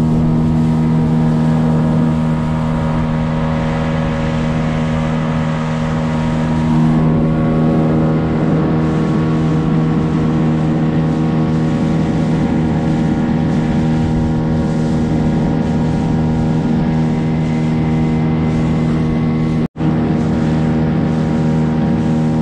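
Gladiator 9.9 hp outboard motor running at a steady cruising throttle, pushing the boat along at one unchanging pitch, with water rushing past the hull. The sound drops out for an instant about 20 seconds in.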